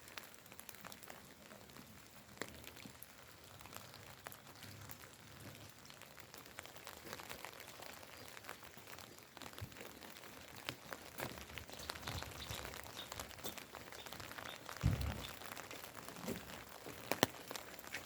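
Steady rain falling, with many small scattered drop ticks. A low thump about 15 seconds in and a sharp click near the end are the loudest moments.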